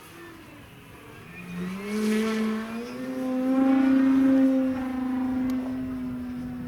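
Radio-controlled airplane's motor and propeller: a droning tone that rises in pitch from about a second and a half in, is loudest about four seconds in, and then holds steady.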